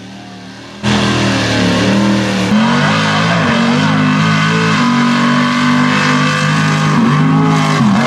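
Mega mud truck engines revving hard, several engine pitches rising and falling together over a dense roar. They come in suddenly about a second in, after a quieter engine sound.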